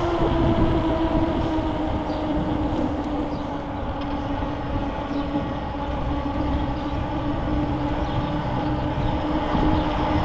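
Steady mechanical whine with several tones that sink slowly in pitch, over a rough low rumble.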